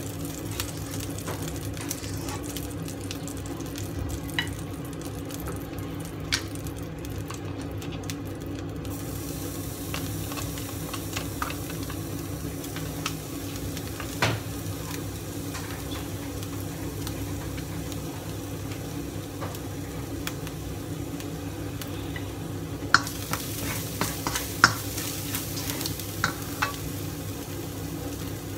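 Minced garlic and ginger sizzling in a little oil in a nonstick wok while a silicone spoon stirs them, with scattered sharp taps of the spoon on the pan, a few louder ones in the second half.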